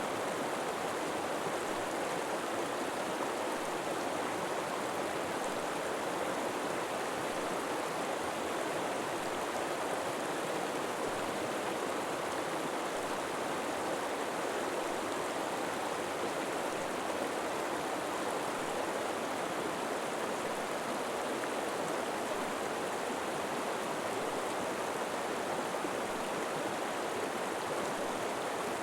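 A river flowing with a steady, even rush of water that does not change.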